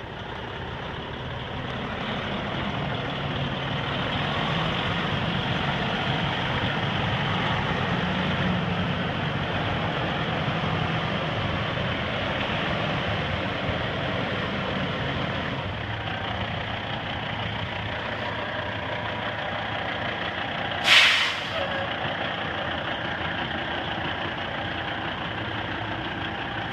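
Diesel engine of a 2003 International 9200i 6x4 semi truck running steadily, growing louder over the first few seconds. About three-quarters of the way through, a short loud hiss of air from the truck's air brakes.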